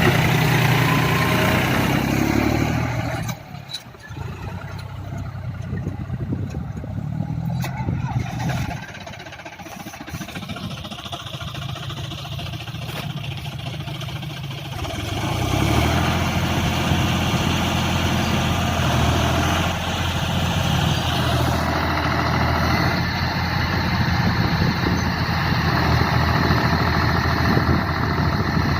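Tractor engine running hard, likely straining to pull the tractor out of mud. It drops to a lower level about three seconds in and comes back up loud and steady at around fifteen seconds.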